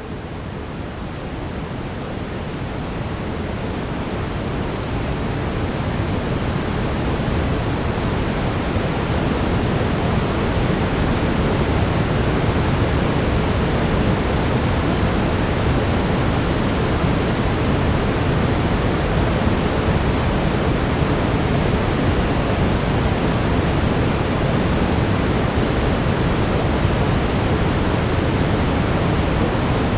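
Brown noise: a steady, deep rushing hiss that fades in over the first several seconds and then holds level.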